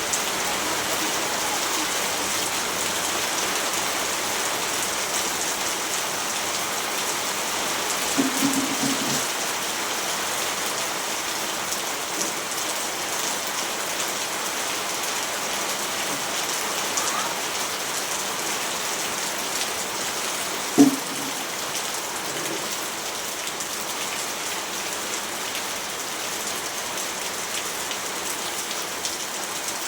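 Steady rainfall pattering on a surface, with a few louder single drops landing close. The sharpest drop comes about two-thirds of the way through.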